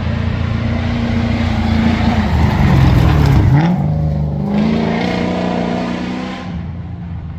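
Competition safari off-road racing vehicle's engine under hard throttle as it passes close. It is loudest about three seconds in, where the engine note dips sharply and then climbs again, before it holds steady and fades toward the end.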